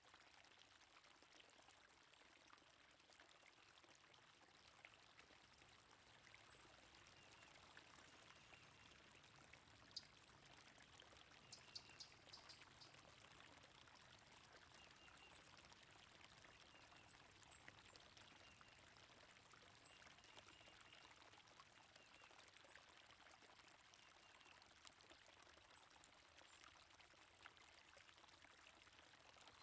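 Faint, steady running water of a stream, with small bird chirps now and then high above it.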